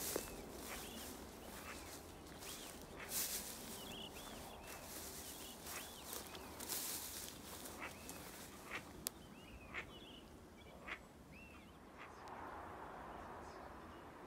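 Birds calling repeatedly with short, arching chirps, over scattered brief bursts of rustling.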